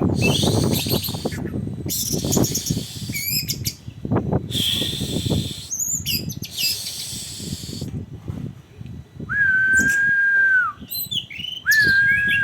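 Orange-headed thrush singing: scratchy, rasping phrases with quick high trills and sweeps, then two long steady whistled notes about nine and eleven seconds in. A low rumble runs underneath.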